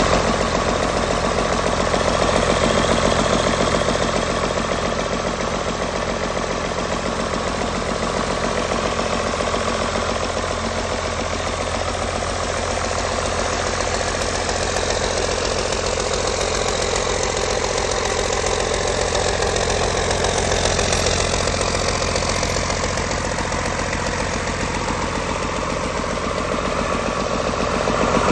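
Cummins 6BT 5.9-litre inline-six turbo diesel engine running steadily at idle.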